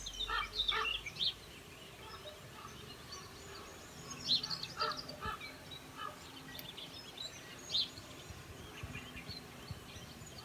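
Birds calling: scattered short chirps and calls over a faint steady outdoor hush.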